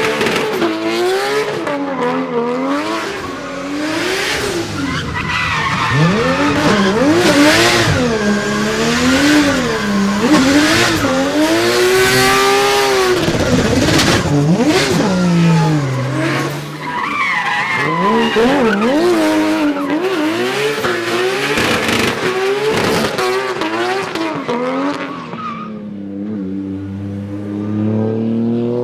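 RB28 inline-six engine of a drift-built BMW M3 being worked hard, its revs swinging rapidly up and down as the tyres squeal and skid through a drift. About 26 s in the tyre noise drops away and the engine pulls cleanly, its pitch climbing steadily.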